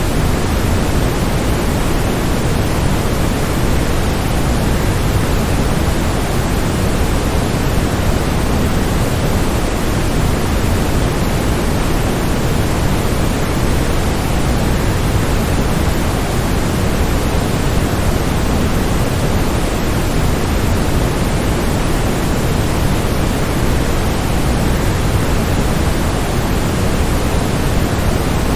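Waterfall: a steady, unbroken rush of falling water, deep and even, with no changes.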